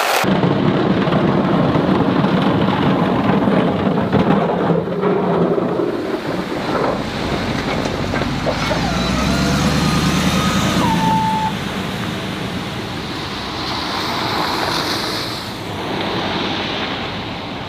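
A vehicle running and moving, with a steady mix of engine and road noise, and a faint, thin squeal wavering in pitch about halfway through.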